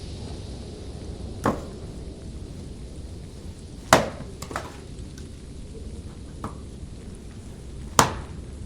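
A few sharp knocks at uneven spacing, the loudest two about four seconds apart, each with a short ringing tail, over a steady low rumble of wind.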